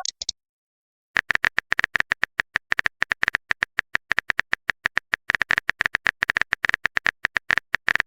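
Phone-keyboard typing sound effect: rapid, irregular clicks, starting about a second in after the tail of a short message chime.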